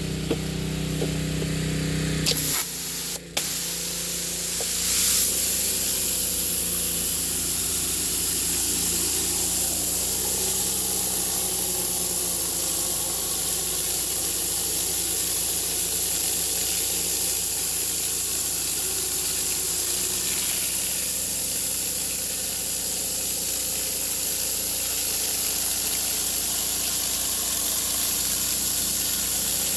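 Yamaha-powered 3100 psi gas pressure washer running, and about two and a half seconds in the high-pressure spray starts. The water then hisses steadily through a sweeper-head surface cleaner attachment onto cement, with the engine running underneath.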